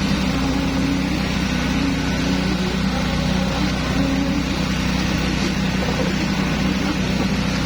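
A diesel engine on concrete-pouring machinery running steadily: a constant low drone with a deep hum and no change in speed.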